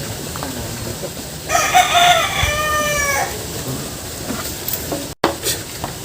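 A rooster crowing once, a single crow of about two seconds that drops in pitch at its drawn-out end.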